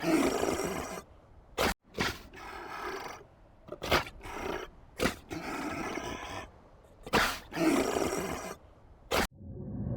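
Lion roaring and grunting in a series of separate calls, about one to two seconds apart. A steady low rumble begins near the end.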